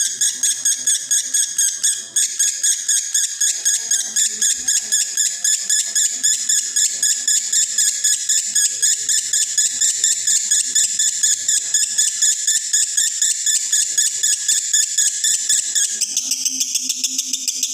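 Male lovebird in breeding condition singing a long, unbroken 'konslet' chatter: a fast, even run of high-pitched chirps, about five a second, whose tone shifts slightly near the end.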